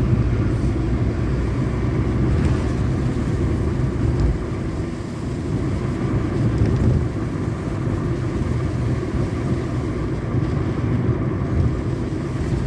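Steady low rumble of a moving vehicle, with noise from the ride running on evenly.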